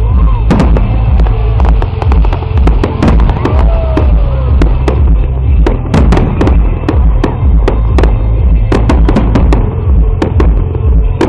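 Fireworks display: rapid, irregular sharp bangs and crackles from bursting shells, with music playing alongside.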